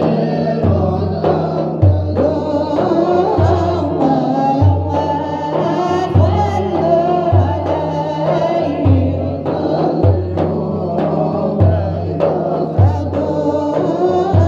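Arabic devotional song in praise of the Prophet, sung over a steady repeating drum rhythm.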